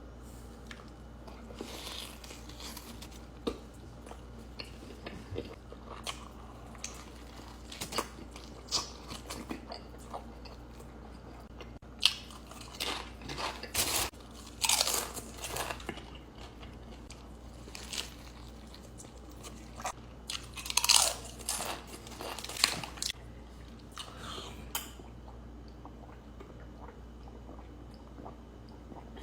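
Close-miked eating of a burrito: bites and chewing with bursts of crunching and crackling that come in clusters, loudest around the middle and about two-thirds of the way through.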